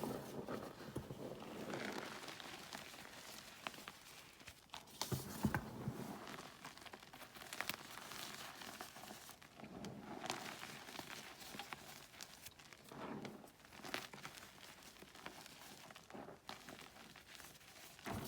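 Gym chalk blocks being crushed and crumbled by hand: irregular crunches and crackles with soft, powdery crumbling between them, the loudest crunch about five seconds in.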